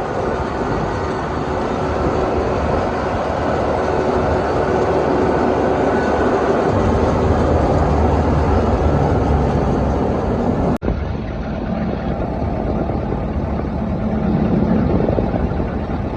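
Diesel tractor engines running loud, the low rumble heavier from about seven seconds in, with a sudden break about eleven seconds in.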